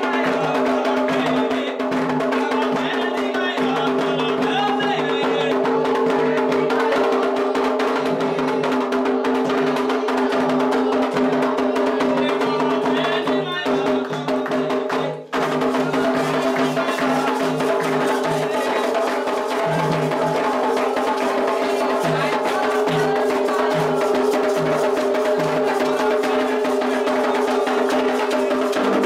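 Candomblé atabaque drums playing a fast, driving rhythm, the lead rum drum playing over the steady beat of the others. The sound drops out briefly about fifteen seconds in.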